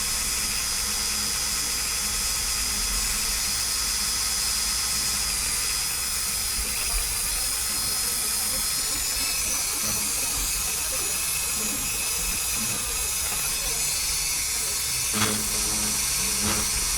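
Small rotary tool running steadily at high speed, spinning a 2 mm plastic rod for spin welding plastic: a steady high whine with hiss. Two brief knocks near the end.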